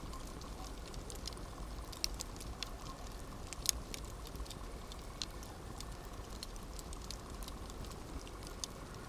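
Campfire burning with a steady low rumble and irregular crackles and pops of burning wood, the loudest pop a little past halfway.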